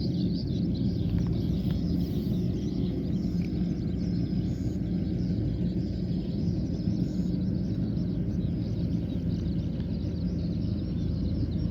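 Kubota combine harvester running steadily in the field, its engine a constant low drone.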